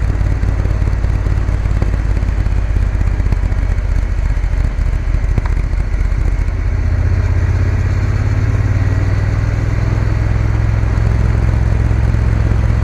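Triumph Bonneville T120's parallel-twin engine running while the motorcycle is ridden downhill. The engine note grows louder and firmer from about seven seconds in.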